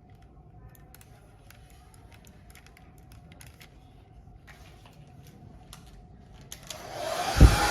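Light plastic clicks and taps as the parts of a computer mouse are handled and fitted back together. Near the end a loud steady rushing noise starts, with one heavy thump.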